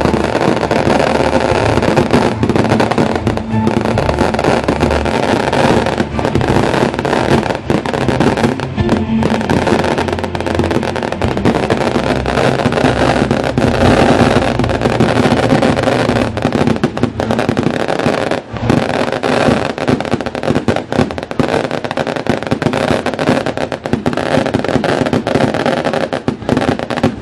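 Fireworks crackling and popping in a dense, continuous barrage, with festival music underneath.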